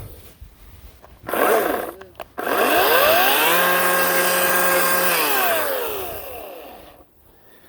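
Ryobi 18-inch electric chainsaw: a short blip of the trigger about a second in, then the motor spins up, runs steadily for a couple of seconds, and winds down with a falling pitch.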